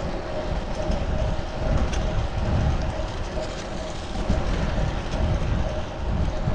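Wind buffeting the chest-mounted action camera's microphone while riding a fixed-gear bicycle through city traffic, with a gusty low rumble over steady road noise and a constant mid-pitched hum.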